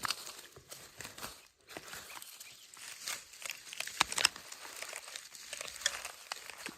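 Rustling and crackling as bamboo shoots are snapped off by hand among dry husks and leaf litter, with two sharper cracks about four seconds in.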